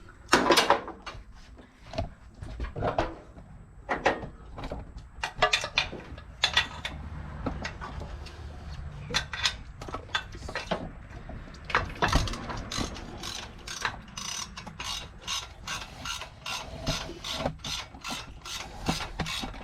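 Hand ratchet wrench clicking as a bolt is worked loose, in scattered strokes at first and then a quicker, steady run of clicks from about twelve seconds in.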